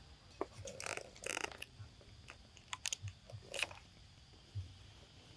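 A monkey eating: a run of short crunches and clicks as food is bitten and chewed, bunched in the first three and a half seconds or so.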